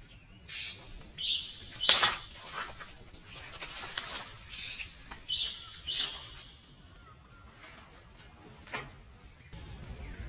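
A bird chirping in short, high, slightly falling notes, several times, with two sharp knocks, the louder one about two seconds in.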